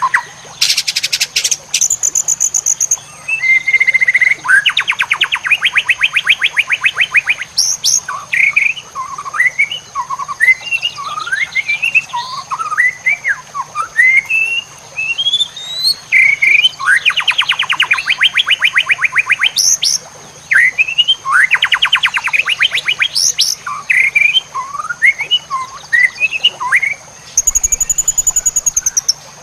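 White-rumped shama (murai batu) singing continuously, a string of short rising and falling whistles broken by several fast rattling trills. A thin steady high tone runs underneath.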